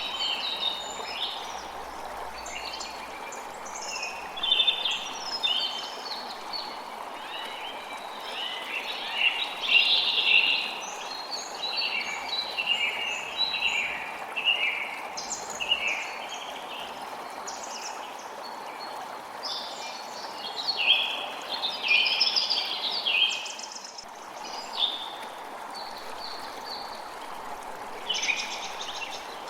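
A creek running with a steady rush of water, and several birds chirping and singing over it in frequent short phrases.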